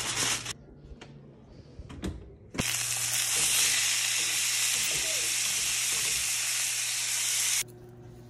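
Chicken breasts sizzling as they fry in a pan: a steady loud hiss that starts about two and a half seconds in and cuts off suddenly near the end. Before it, a brief crinkle of aluminium foil.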